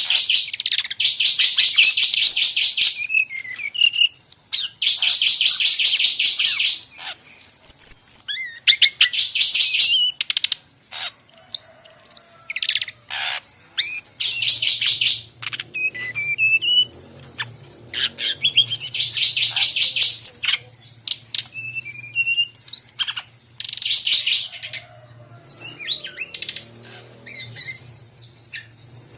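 Brown-chested jungle flycatcher singing loudly, mixed with other birds' calls: rapid buzzy trills of a second or two, repeated every few seconds, with short whistled and sliding notes and clicks between them. A faint low hum comes in about halfway through.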